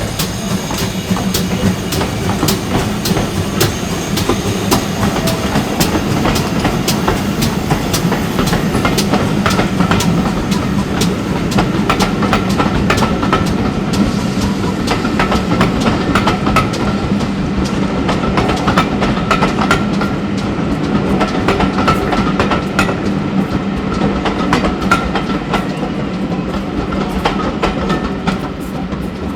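Heritage railway train running along the track, its wheels clicking over the rail joints in many sharp clicks over a steady low rumble, with a faint high ringing tone.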